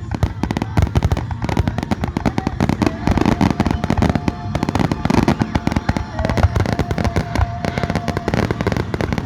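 Aerial fireworks display: a dense, continuous barrage of bangs and crackles, many per second.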